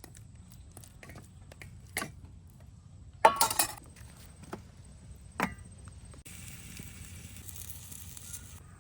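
Metal pan and cooking utensils knocking and clinking as meat is moved into the pan. There are three sharp strikes, the loudest and longest about three seconds in. A steady hiss starts suddenly about six seconds in and stops just before the end.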